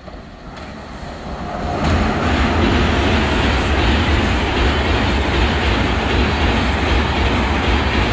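Duronto express of LHB coaches behind a WAP-7 electric locomotive, crossing a steel girder railway bridge. The noise grows as the train comes up, then from about two seconds in it becomes a loud, steady rolling of wheels on rail and bridge as the coaches pass close by.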